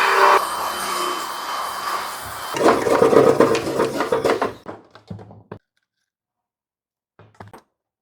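Scraping and rubbing against a surface in a series of rough strokes, after a steady humming tone that cuts off about half a second in; a few light knocks follow, then quiet apart from one short sound near the end.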